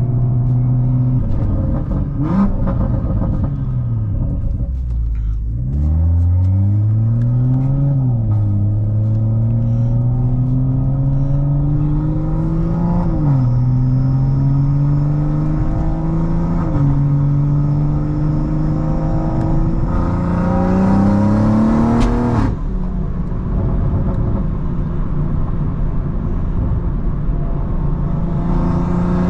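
BMW M340i's turbocharged B58 inline-six under hard acceleration: the engine note winds down in the first few seconds, then climbs through the gears with a drop in pitch at each of three upshifts. It cuts off suddenly as the throttle is lifted about two-thirds of the way through, runs steadier, and starts to climb again near the end.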